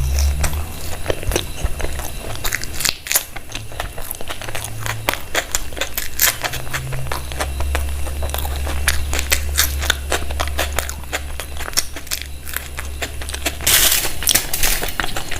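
Close-miked eating: chewing and biting with many quick, irregular wet mouth clicks and smacks, and a brief rustling burst near the end.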